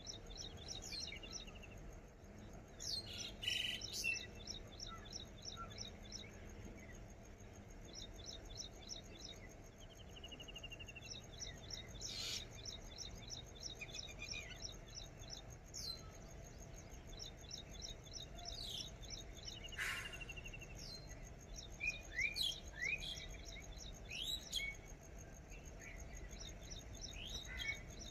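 Birds calling in the open country: scattered sharp chirps, a short trill that recurs every eight or nine seconds, and bursts of fast pulsing song a few seconds long, over a faint low hum.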